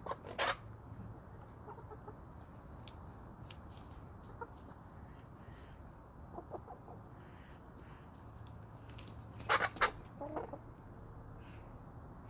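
Domestic chickens clucking: two loud short calls at the start, a few soft clucks midway, and a burst of loud calls about three-quarters of the way through.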